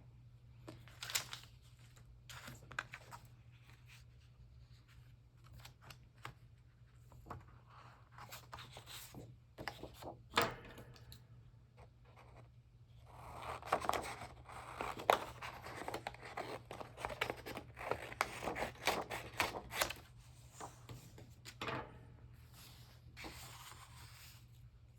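Scissors cutting paper in short snips, with paper rustling as the pieces are handled. The snipping and rustling come thicker and louder a little past the middle.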